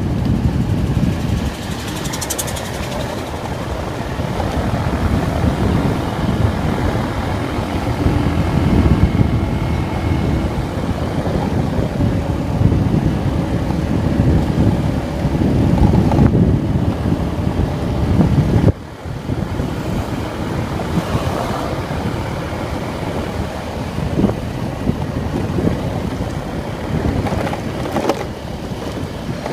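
Vento Terra motorcycle running while being ridden, its engine mixed with heavy wind noise on the microphone. The sound drops out suddenly and briefly about two-thirds of the way through.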